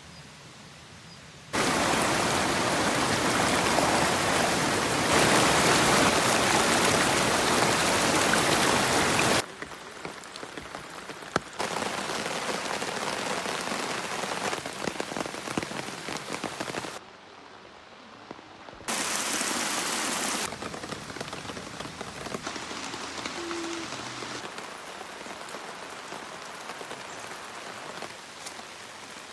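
Heavy rain pouring down as a steady hiss. It comes in abrupt changes of loudness: it starts suddenly about a second and a half in and is loudest until about nine seconds. After that it drops and rises a few more times, and is softer in the second half.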